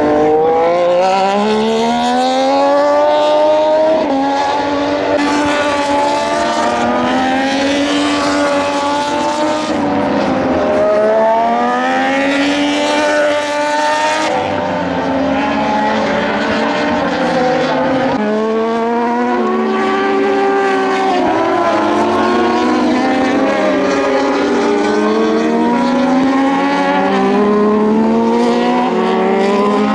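Several Moto2 race bikes with Triumph 765 cc three-cylinder engines howling past at once. Their engine notes climb in steps as they shift up through the gears, then fall away as they brake and change down, one wave of bikes after another.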